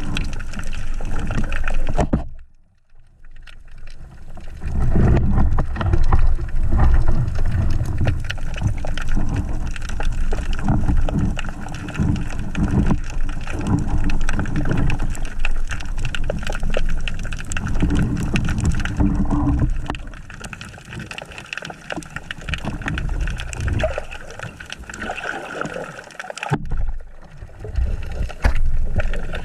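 Water churning and gurgling against an action camera, with a brief drop to quiet about two seconds in.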